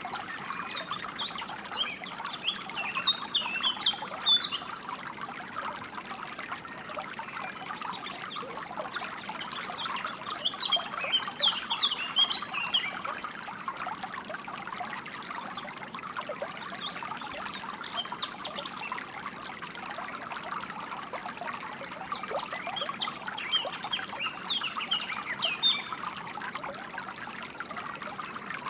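Water trickling steadily in a small stream, with a songbird singing bursts of quick, high twittering chirps four times, roughly every six to seven seconds.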